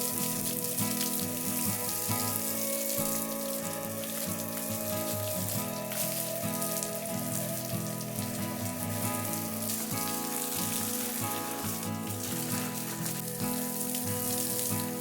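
Background music with sustained chords changing about every second, over a steady rain-like hiss.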